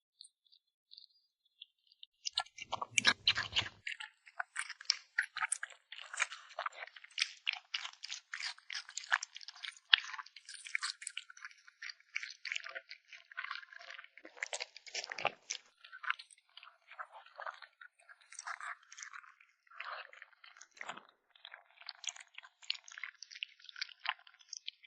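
A kitten chewing and crunching food: dense, irregular wet crunches and clicks of its teeth that start about two seconds in and keep going, with a heavier crunch about three seconds in.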